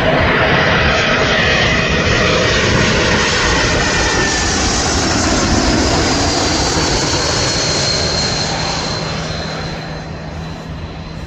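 Jet airliner on final approach passing low overhead: loud jet engine noise with high whining tones that drop slightly in pitch as it passes, fading away over the last few seconds.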